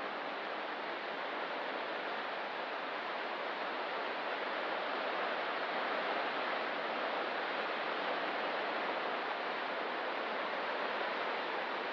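Ocean surf washing on a rocky coast: a steady rush of breaking waves that swells a little near the middle.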